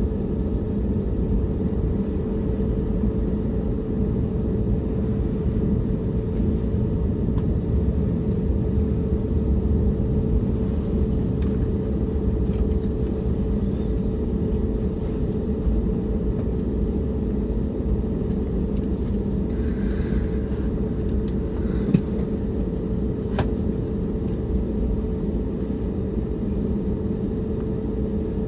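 Steady engine and airflow drone inside the cabin of an Airbus A321neo, deep rumble with a constant hum running through it. A single sharp click sounds about three-quarters of the way through.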